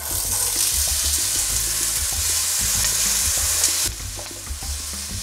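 Cubed raw potatoes sizzling as they hit hot olive oil in a pot and are stirred with a wooden spatula; the sizzle is strongest at first and quietens about four seconds in.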